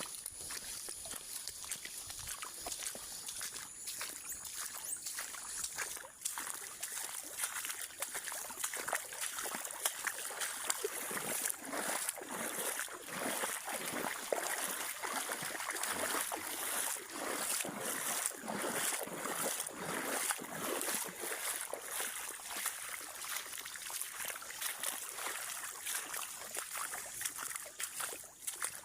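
Water splashing and sloshing in many small irregular splashes, with trickling between them, busier in the middle stretch.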